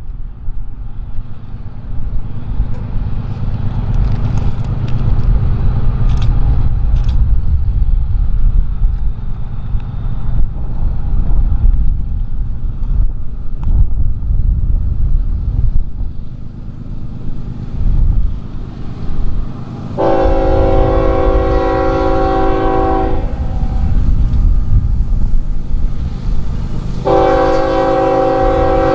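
Diesel freight train rumbling past with a steady low drone, while the lead locomotive sounds its multi-chime air horn in two long blasts about twenty seconds in; the second blast is still sounding at the end.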